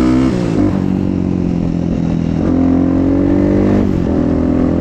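Motorcycle engine running while riding. Its pitch drops about half a second in, then climbs again around two and a half seconds, with a brief dip near four seconds like a gear change.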